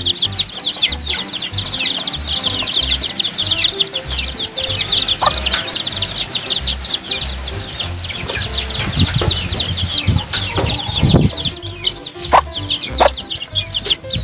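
A flock of chicken chicks peeping without a break: many short, high, falling cheeps overlapping one another. Background music plays faintly underneath.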